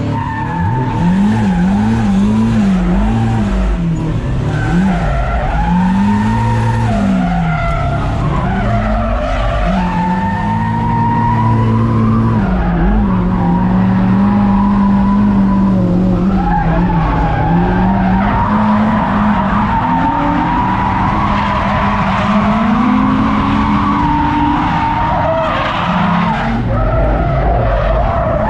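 Drift car engine revving up and down in quick swings as the throttle is worked through a slide, with tyres squealing steadily over it.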